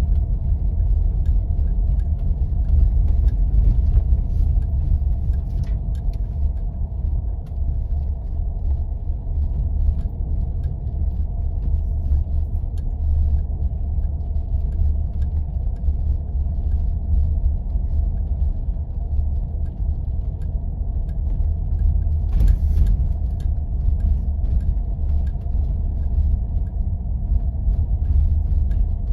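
4x4 vehicle driving on snow-covered roads: a steady low rumble of engine and tyres, with a faint steady whine above it and scattered light ticks. A brief rustle about 22 seconds in.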